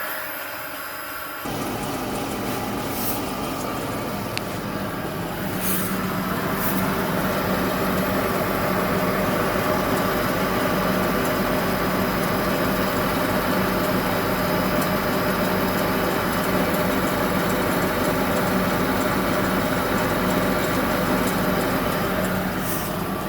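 Steady hum of a Toyota Prius wheel turning on its hub bearing, the noise by which a new hub bearing gone slightly bad is picked out from good ones. The sound steps louder about a second and a half in.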